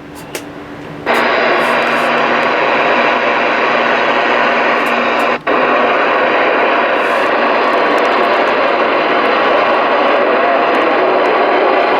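Stryker SR-955HPC CB radio on receive, its speaker hissing with loud band static. The static comes on abruptly about a second in and breaks off for an instant about halfway through.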